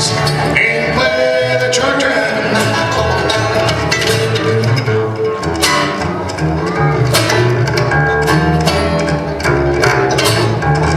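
Acoustic bluegrass band playing at an up-tempo pace: rapid plucked banjo and mandolin notes over flat-top guitar and an upright bass keeping the beat.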